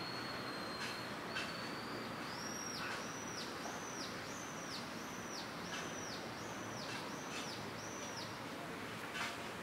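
A songbird singing: a long high whistled note held about two seconds, rising slightly, then a run of about nine short high notes at a steady pace, each dropping in pitch at its end. A few faint clicks sound in between over steady background noise.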